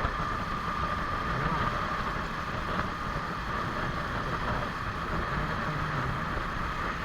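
Suzuki Smash 115 underbone motorcycle's small single-cylinder four-stroke engine running steadily on the move, under a steady rush of wind and road noise.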